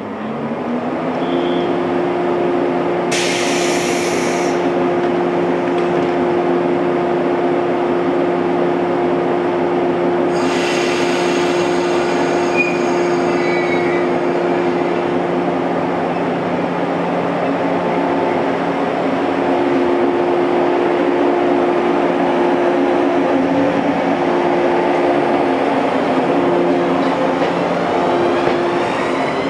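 JR West 115-series electric train standing at the platform with a steady electric hum from its equipment throughout. There are two bursts of air hiss, one about three seconds in and a longer one about ten seconds in, from the train's compressed-air system around the closing of the doors. Near the end the train starts to pull away.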